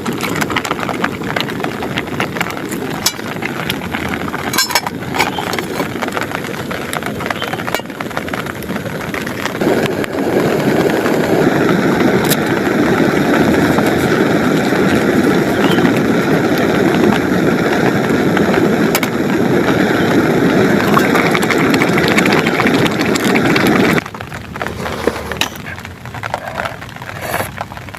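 Heavy rain beating on a plastic tarp shelter, a steady dense hiss with scattered clicks and clinks. About ten seconds in the rain sound grows louder and fuller, and near the end it drops back suddenly.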